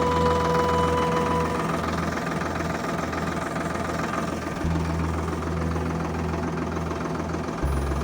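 Tractor engine running steadily with a rattling clatter over it. Its note shifts about four and a half seconds in and again near the end. A held tone stops about a second and a half in.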